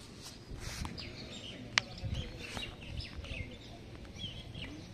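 Small birds chirping over and over in short, high chirps, with a single sharp click a little under two seconds in.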